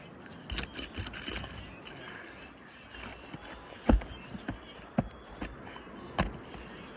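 Hand work on roof shingles: scattered clicks, scrapes and knocks as the shingle rows are worked loose, with a sharp knock just before four seconds in and another a little after six.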